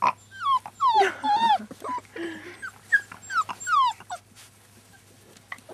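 Young labradoodle puppies whimpering and whining: a quick run of high cries that slide down in pitch, dying away after about four seconds.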